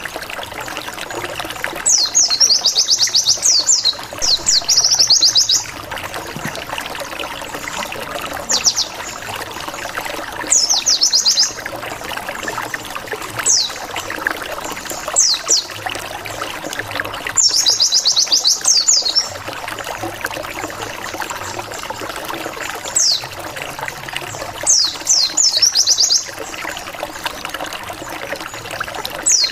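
Pleci (white-eye) song used as a lure: rapid trills of quick downward-sweeping high notes, coming in short bursts about a dozen times at irregular intervals. Under the song runs a steady trickling, water-like hiss.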